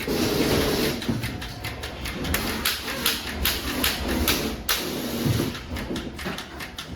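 Factory clatter from car door lock production: irregular clicks and knocks of small metal parts over a low machine rumble, busiest in the middle.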